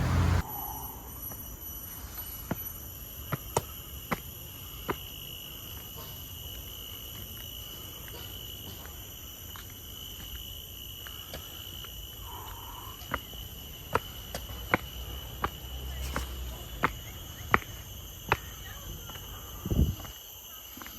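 Forest insects buzzing and shrilling steadily in several high, constant tones, with irregular sharp clicks scattered throughout and a dull thump near the end. A passing vehicle's noise cuts off in the first half second.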